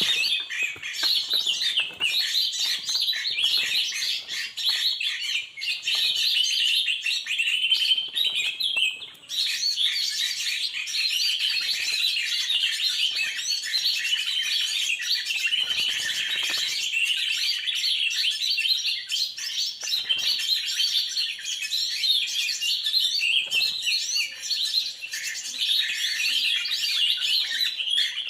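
Dense, continuous chirping of many small birds, rapid overlapping high notes with hardly a pause, briefly dipping just before a third of the way through.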